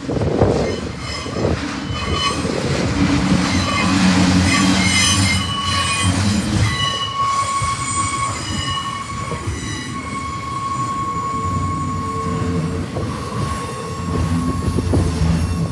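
Double-stack intermodal train's well cars rolling past close by: a low rumble of steel wheels on the rails, with a high, steady wheel squeal drawn out for several seconds in the middle.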